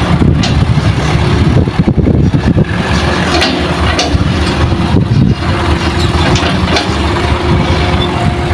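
Heavy earthmoving machinery's diesel engine running loudly and steadily, with several sharp knocks and clanks scattered through it.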